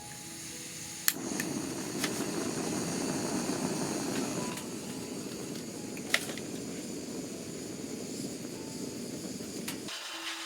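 Meat frying in a pan, a steady sizzle with a few sharp pops; it cuts off shortly before the end.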